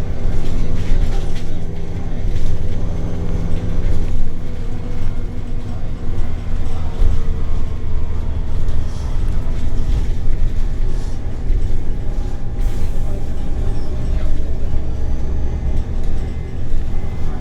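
Scania L94UB bus's compressed-natural-gas engine and drivetrain heard from inside the cabin while riding, a steady deep drone whose pitch shifts up and down with engine speed.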